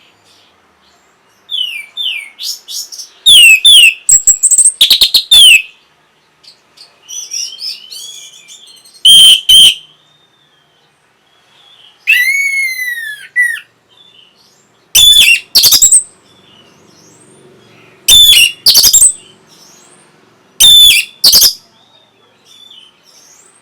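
Orange-headed thrush singing: loud, varied short phrases repeated every few seconds with quieter twittering between them, and about midway a quick run of arched whistled notes.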